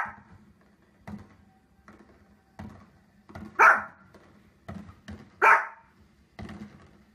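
Small fluffy dog barking: two loud, sharp barks about two seconds apart in the middle, with softer sounds in between.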